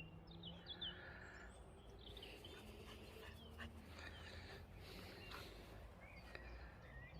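Faint birdsong: scattered short chirps from small birds, over a low steady background rumble.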